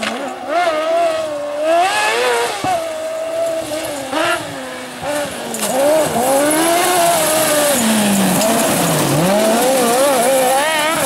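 Rally car engine revving hard, its pitch rising and falling repeatedly through gear changes and lifts, with a deeper drop and climb near the end. A steady high hiss joins from about halfway through.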